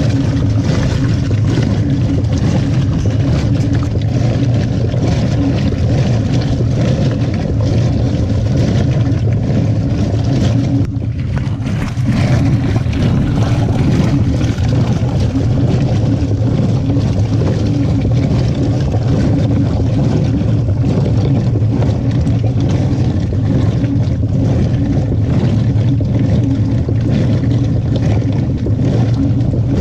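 Washing machine running a wash cycle with a load of jeans: steady motor hum and water sloshing in the drum, easing off briefly about eleven seconds in before picking up again.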